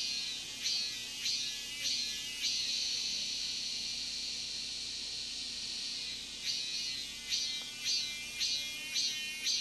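Cicada singing close by: a high, shrill buzz that pulses about twice a second. In the middle it runs for a few seconds as one unbroken drone, then the pulsing comes back.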